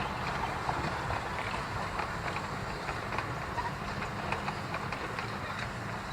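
Narrow-gauge train rolling steadily along the track, its wheels clicking and clattering over the rail joints.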